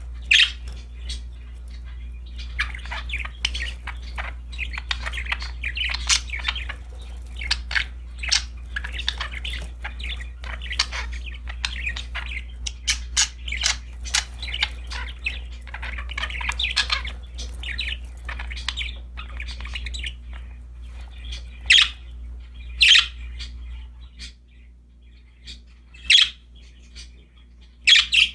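Pet budgerigars chattering, a dense run of quick chirps and warbles that thins after about twenty seconds to a few sharp, loud single calls. A low steady hum lies underneath and drops away near the end.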